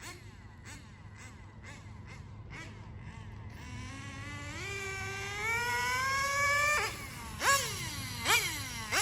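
Nitro RC car engine blipping the throttle in short repeated revs, then winding up steadily in pitch for about three seconds on a full-throttle run. It cuts off suddenly about seven seconds in and is followed by sharp throttle blips that fall away in pitch.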